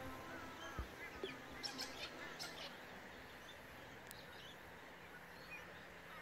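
Birds chirping and calling at dusk over a faint steady hiss: short rising and falling calls, with a quick run of sharper chirps about two seconds in.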